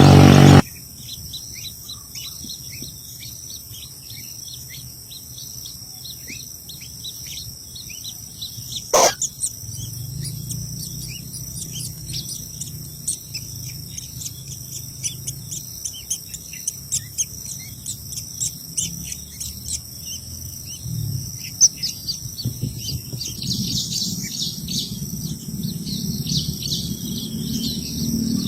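Many short bird chirps over a steady high insect drone, with one loud sharp call about nine seconds in and busier chirping near the end. A loud sound cuts off abruptly half a second in.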